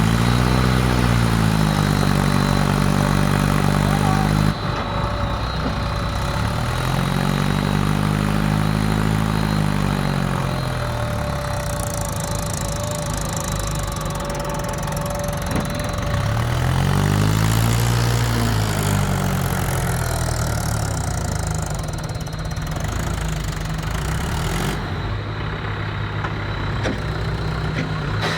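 Mahindra XP-series tractor's diesel engine idling and being revved up and back down three times, the pitch rising and falling with each rev. The first rev cuts off sharply after about four seconds.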